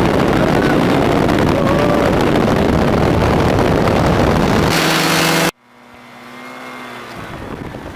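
Loud wind rush buffeting the microphone over a paratrike's engine in flight. About five and a half seconds in it cuts off abruptly to a much quieter, steady engine hum that grows gradually louder.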